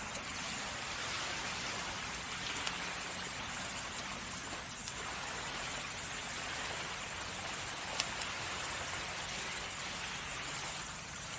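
Steady wash of sea waves on the shore, with a few faint crackles from a wood campfire.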